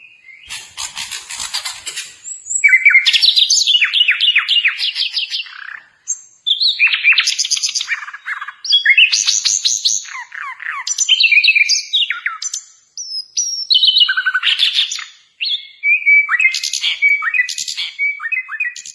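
Hill blue flycatcher (sikatan londo) singing loudly. It opens with a harsh rattle about a second long, then gives a steady run of song phrases of fast trills and clear whistled notes, each a second or two long, with short breaks between them.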